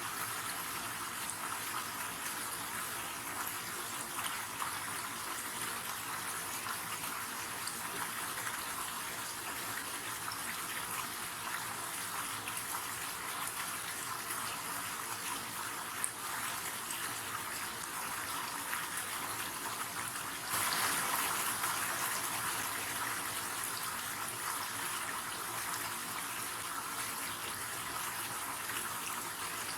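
River water running steadily, a continuous rushing hiss. It turns suddenly louder about two-thirds of the way through, then eases back, with one brief click about halfway.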